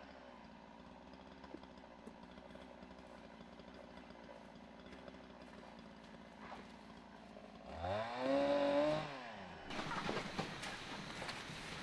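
A small motorbike engine revs briefly about eight seconds in, its pitch rising and then falling over about two seconds, against a faint steady hum.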